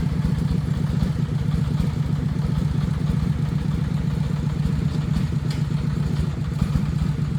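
Agricultural truck's diesel engine running steadily with an even, rapid chugging.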